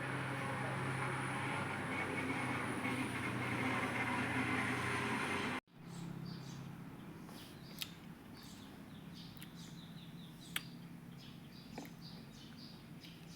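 A steady noisy rumble with a low hum, cut off suddenly about five and a half seconds in; after it, small birds chirping softly, with a few sharp clicks.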